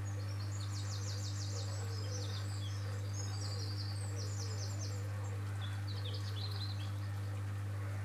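A small songbird singing fast, high trilling phrases, one long phrase over the first few seconds and a shorter one about six seconds in, over a steady low hum.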